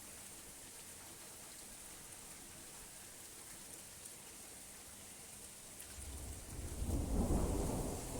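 Steady rain falling. About six seconds in, a roll of thunder rumbles up, peaks a second later and begins to fade.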